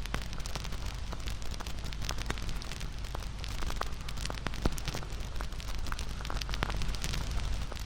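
Wood campfire burning, with irregular crackles and pops over a steady low rumble of flame; one louder pop about halfway through.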